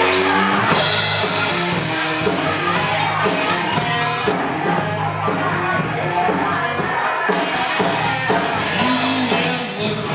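Live band playing an upbeat rock-and-roll instrumental passage on drum kit and electric guitar, with no vocals.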